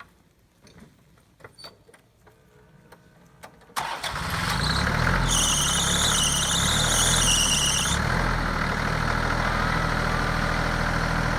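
Farm tractor engine starting suddenly about four seconds in and running steadily, with a high wavering squeal over it for a few seconds just after it catches.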